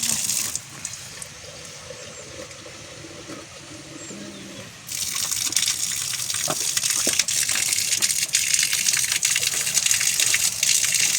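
Rushing, gushing water, loud and steady. It drops away abruptly about half a second in and returns just as suddenly near five seconds.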